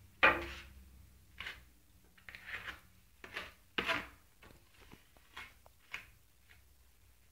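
A plastering trowel working a thin coat of decorative plaster, in a string of short scrapes; the first, just after the start, is the loudest.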